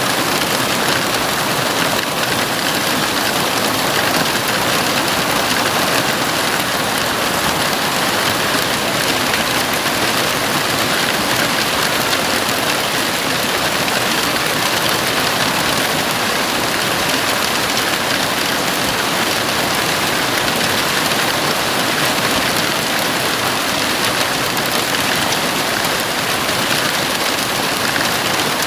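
Heavy rain falling on a house roof, a steady, even downpour with no letup.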